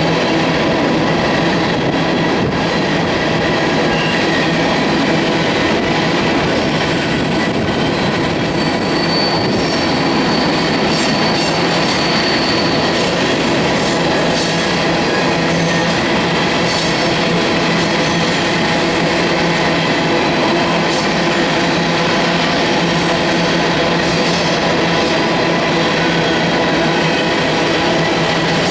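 Freight cars of a grain train rolling past at close range: steady loud rumble and rattle of steel wheels on rail, with faint high wheel squeals coming and going.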